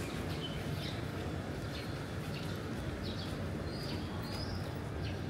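Small birds chirping in short high calls, several times a second apart, over a steady low background hum.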